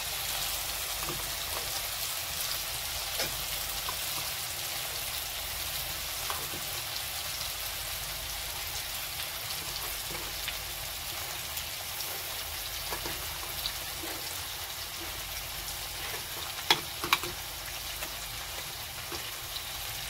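Vegetables frying in an iron kadai: a steady sizzling hiss, with scattered faint ticks and two sharp metal clicks about three-quarters of the way through.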